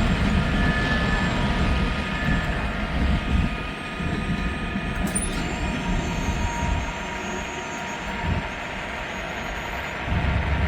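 Freight train rolling past, its cars rumbling and clattering on the rails, with wind buffeting the microphone. Near the end a steady low engine drone comes in.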